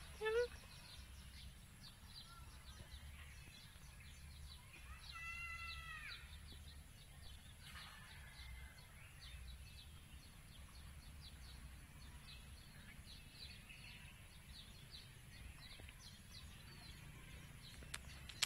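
Small birds chirping in short, quick notes over a low steady rumble. One longer pitched call rises and falls about five seconds in.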